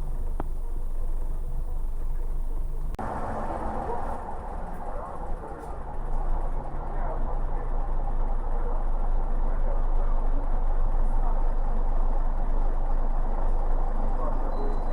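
Inside a moving Scania-chassis city bus: a steady low diesel engine hum with road and cabin noise. The noise jumps up abruptly about three seconds in, then grows a little louder as the bus gets under way.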